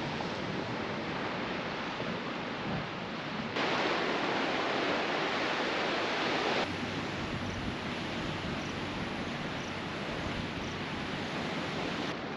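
Sea waves washing onto the shore, a steady rushing hiss mixed with wind, louder for about three seconds near the middle.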